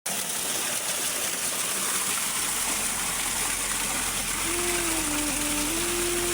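Steady rain, an even hiss. About four and a half seconds in a flute begins a long held note that dips briefly and returns.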